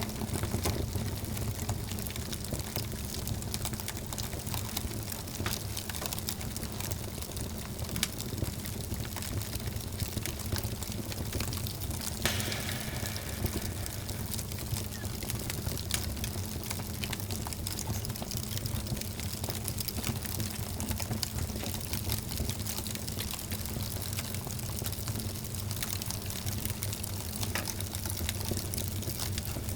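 Wood fire burning in a fireplace: a steady rushing hiss with a low rumble, dotted with frequent small crackles and pops, and one louder snap about twelve seconds in.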